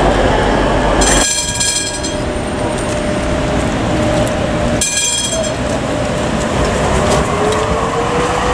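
Train running through a railway station, with brief high-pitched squeals about a second in and again about five seconds in, and a slowly rising whine near the end.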